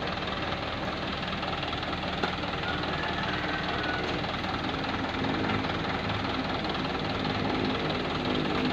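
Diesel dump truck engine running steadily, its note growing louder and fuller about halfway through.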